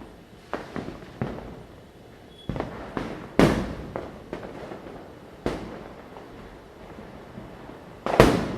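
Diwali firecrackers going off one after another at irregular intervals, sharp bangs that echo and fade, the loudest about three and a half seconds in and another big one near the end.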